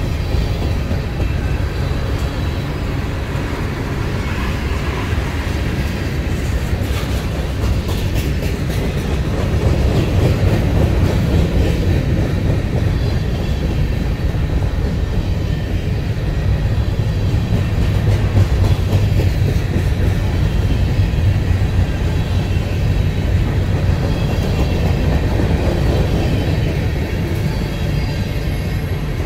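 Freight train rolling past: a steady low rumble of the cars' wheels on the rails, with a short run of rail clicks about seven to eight seconds in.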